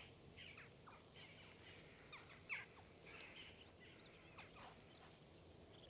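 Faint, scattered calls of a flock of jackdaws, many of them fledged young: a steady run of short, sharp calls overlapping one another.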